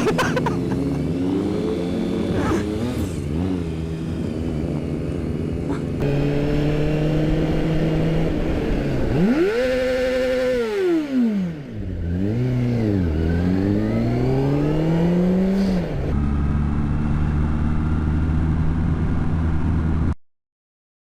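Motorcycle engines heard from the rider's own camera, revving up and down in pitch and pulling up through the gears in a series of rising sweeps, over road and wind noise. The sound changes abruptly twice where one clip cuts to the next, and drops out briefly near the end.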